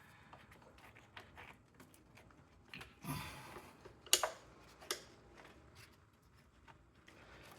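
Quiet handling of tools and parts in an engine bay: scattered small clicks, a short rustle about three seconds in, then a sharp metallic clink with a brief ring about a second later and a lighter one after it.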